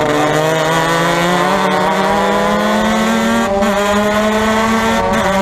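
Formula Mazda race car's rotary engine pulling hard under acceleration, its pitch climbing steadily, with two brief stutters about three and a half seconds in and near the end.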